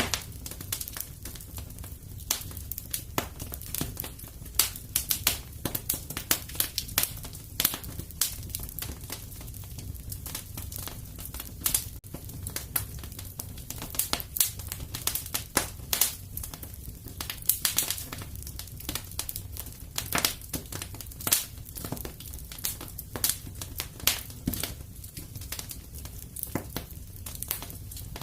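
Wood fire crackling in a fireplace: many irregular snaps and pops over a steady low rumble of the flames.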